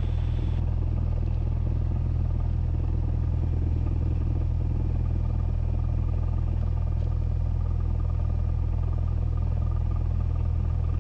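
Steady drone of a Cessna 172S's four-cylinder Lycoming engine and propeller in cruise, heard in the cockpit through the headset audio feed, unchanging in pitch and level.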